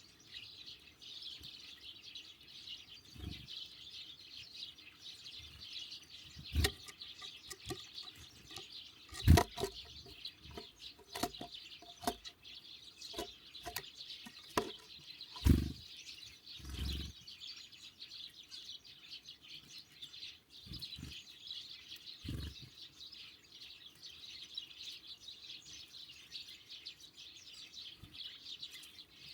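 Small songbirds at a feeder chirping and twittering steadily, with several sharp knocks and wing flutters as birds land and take off, the loudest about nine seconds in and again around fifteen to seventeen seconds.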